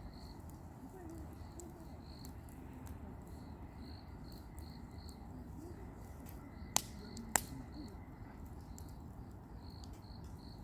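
Crickets chirping steadily over a campfire burning, with two sharp crackling pops from the fire a little over half a second apart about seven seconds in.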